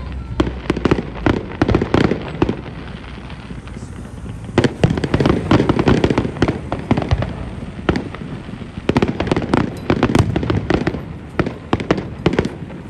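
Fireworks display going off: rapid bangs and crackling bursts, coming thickest in two flurries about five and nine seconds in.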